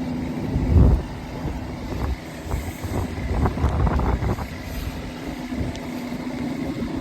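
Boat's outboard motor running steadily under way, with wind buffeting the microphone, strongest about a second in and again around three to four seconds in.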